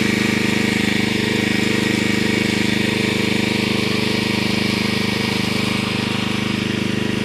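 A small engine running steadily at a constant speed, with an even, unchanging drone.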